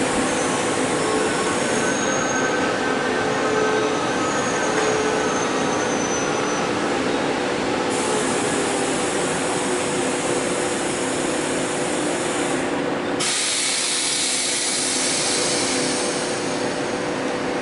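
Push-pull Tze-Chiang express train running alongside the platform: a steady rolling rumble and hiss with held humming tones and faint thin squeals. About 13 seconds in, the sound shifts to a brighter hiss with less low rumble.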